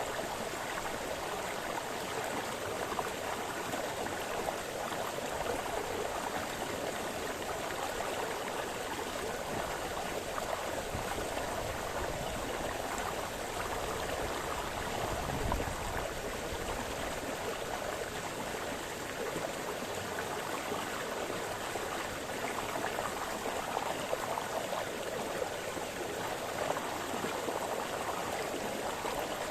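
Small forest brook splashing and babbling over stones, a steady, even rush of water. One brief low rumble about halfway through.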